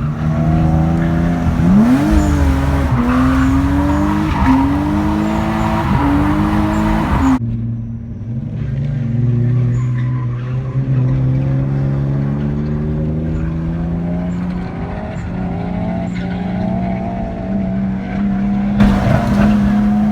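BMW E36 drift car's engine revving up and dropping back several times in quick succession, with tyres squealing. About seven seconds in it cuts abruptly to the engine running at a steadier pitch that rises and falls slowly, and another cut comes near the end.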